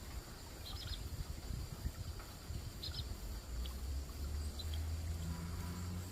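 Outdoor ambience: a steady high insect drone, a few short high bird chirps, and a low rumble that grows into a steadier hum from about halfway.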